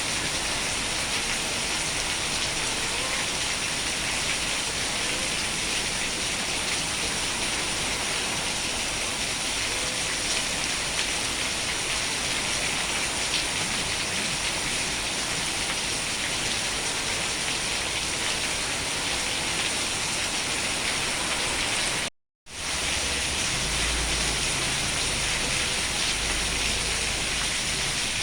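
Steady heavy rain falling with an even hiss. About 22 seconds in it cuts out to silence for a split second, then returns with a low rumble underneath.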